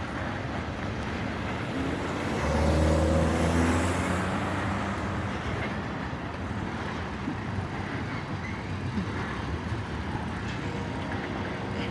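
Long freight train of oil tank cars rolling slowly past: a steady rumble of wheels on rail. A low engine hum swells and fades between about two and five seconds in.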